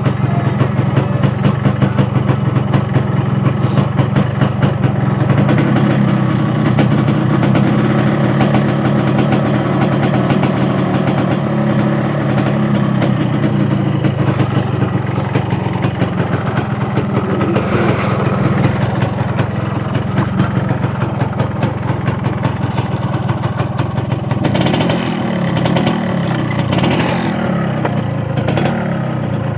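Yamaha RX-King 135 cc two-stroke single-cylinder motorcycle engine running on the move. Its pitch rises and falls with the throttle several times in the second half.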